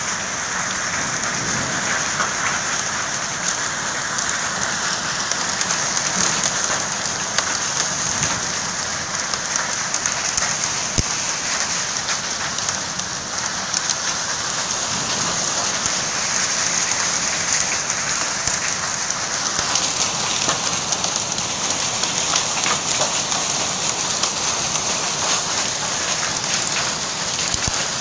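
Heavy rain falling steadily, with a dense scatter of close drop ticks and one sharp tick a little before the middle.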